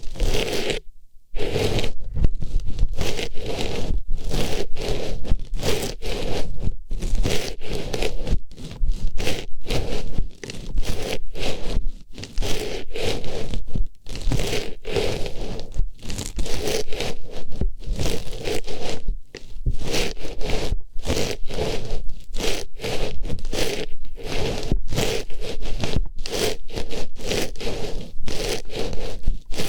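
Artificial rose flower rustling and scraping as it is pushed and rubbed in an ear, in quick repeated strokes, for close-up ASMR ear-cleaning sound. There is a brief pause about a second in.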